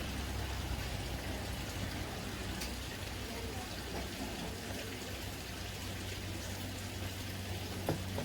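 Steady hiss of rain falling, over a constant low hum, with a single click near the end.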